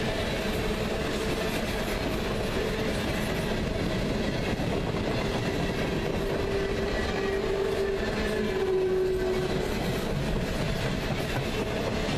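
Freight train of empty cars rolling past: a steady rumble of wheels on rail, with a thin whine that grows stronger about two-thirds of the way through.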